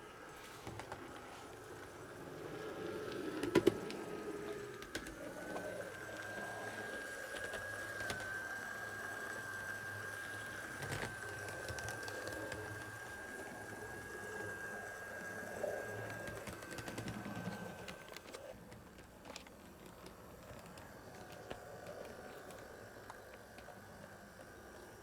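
HO scale model locomotive running on track. Its small electric motor gives a steady high whine for about thirteen seconds in the middle, with light clicks and rattle from the wheels on the rails.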